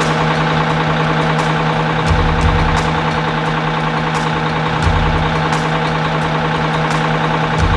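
Boat's inboard engine idling steadily, with a low surge every few seconds. It is being run so the newly fitted exhaust hoses can be checked for leaks.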